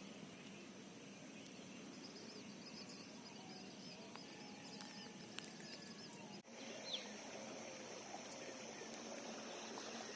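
Faint rural morning ambience: small birds calling, with a run of quick chirps in the first half and a single falling call after a brief dropout about six and a half seconds in, over a steady high-pitched hiss.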